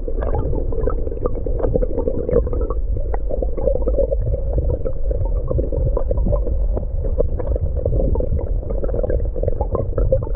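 Rushing stream water, a muffled steady rumble full of small bubbling ticks.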